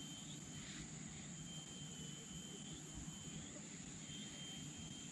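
Faint tropical rainforest ambience: a steady high insect drone, with a thinner high whine that comes and goes every second or so, over a low rumble.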